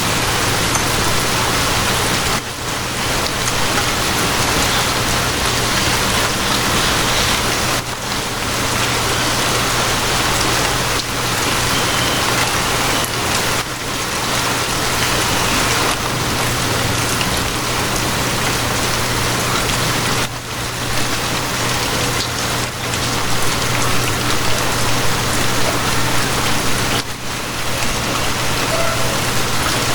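Steady rain, an even hiss, over a low steady hum. There are a few brief dips in level.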